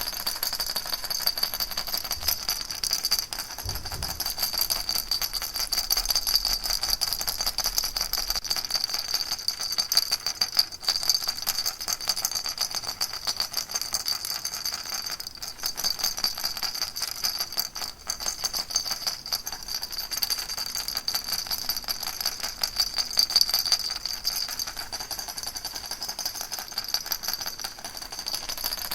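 Baby rattle shaken without pause: a dense, steady stream of fine, rapid rattling clicks, with small rises and dips in loudness.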